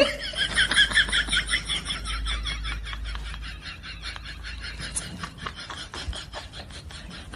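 Quick, repeated rasping and squeaky rubbing as a mouth gnaws and scrapes at the skin of a round yellow fruit, squeakiest in the first two seconds.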